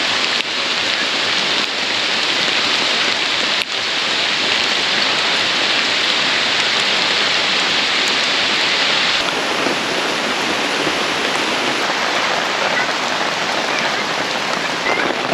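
Heavy tropical rain falling steadily in a dense, even hiss.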